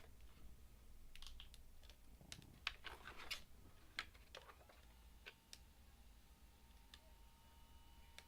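Faint clicks and short rustles of hands handling small plastic parts, several sharp clicks in the first few seconds. From about five seconds in, a faint steady high tone hums quietly.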